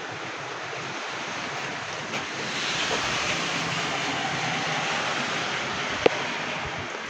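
Strong gusting wind rushing through trees and buffeting the microphone, swelling about two seconds in and easing near the end. A single sharp click about six seconds in.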